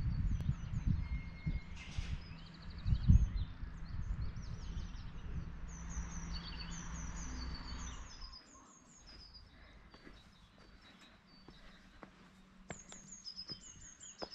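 Small songbirds calling throughout, with high, short chirps repeated in quick groups. For the first half a steady rush of river water and a low rumble lie under them, the rumble swelling about three seconds in. Then it turns much quieter, with only the birds and a few faint clicks.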